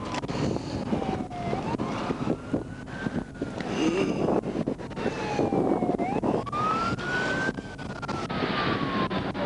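Emergency vehicle siren in a slow wail, its pitch sliding down and back up about twice.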